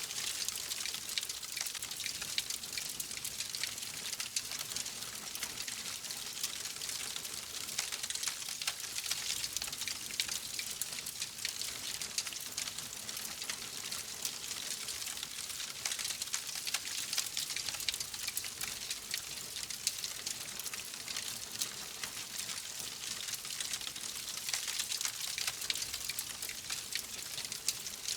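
Wood fire crackling steadily, a dense stream of small pops and snaps over a soft hiss.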